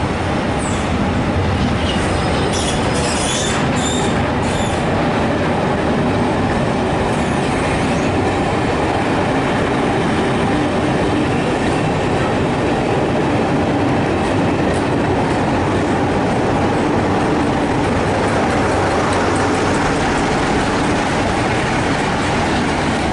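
Rake of passenger carriages rolling past a station platform, a steady rumble of wheels on rails with a few high wheel squeals a few seconds in.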